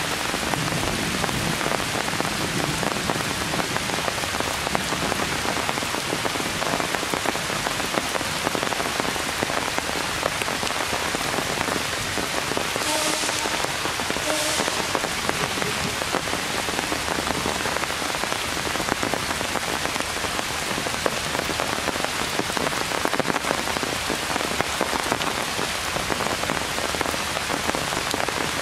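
Heavy rain falling steadily on forest leaves, a dense even hiss of drops. Two brief louder sounds stand out about halfway through.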